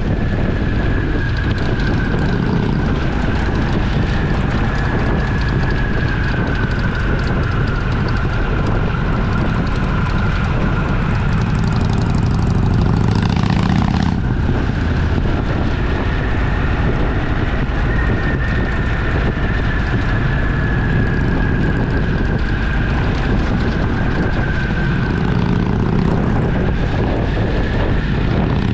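Twin-cylinder motorcycle engine running steadily at cruising speed, with wind rushing over the microphone. There is a brief swell of rushing noise about thirteen seconds in.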